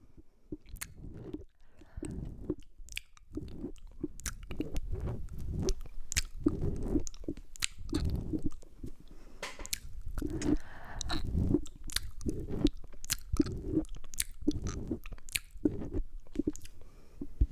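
Close-miked wet mouth sounds: licking and smacking right on the microphone, a continuous irregular run of clicks, pops and squelches.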